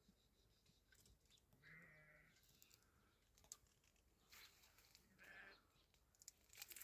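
A few faint bleats from a flock of sheep, with small clicks in between and a cluster of clicks near the end.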